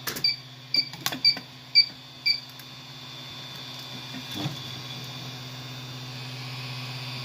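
3D printer beeping five times, short high beeps about twice a second, with a few sharp clicks, during a filament change. Then the printer's fans and motors run with a steady hum.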